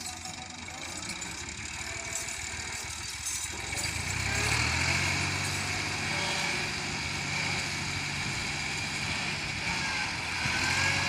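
Massey Ferguson 260 turbo tractor's diesel engine running, growing louder and heavier about four seconds in and holding there as it works under load, with a further swell near the end.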